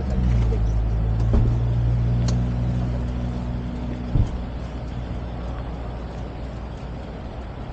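Engine idling steadily with a low, even hum; about four seconds in there is a short knock, the steady tone stops and only a quieter rumble remains.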